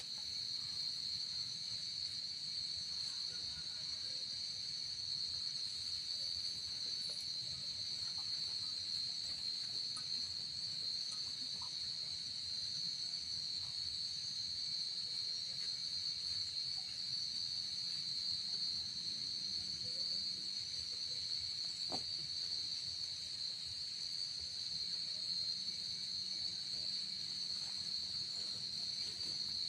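Steady, high-pitched chorus of insects in a pine forest, a continuous unbroken drone that holds one pitch throughout.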